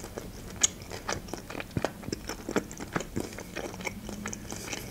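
Close-miked chewing of a mouthful of fried chicken hearts: a quick, irregular run of small wet mouth clicks and smacks.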